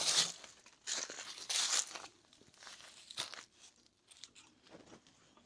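Plastic bumper parts being handled and fitted: two short bouts of crunchy scraping in the first couple of seconds, then a few light clicks.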